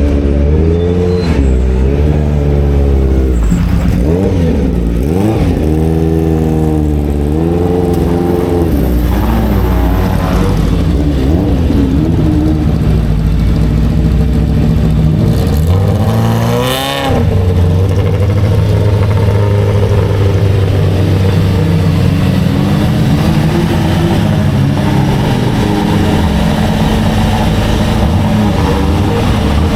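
Historic racing car engines running loud at the circuit, their pitch rising and falling with throttle and gear changes. Near the middle, a sharp climb in pitch and a brief dip mark one car going close by.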